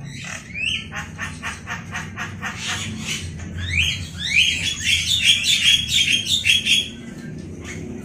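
Caged pet birds calling: first a quick series of short calls, about four a second, then a louder run of rising, upward-sweeping calls that stops about a second before the end.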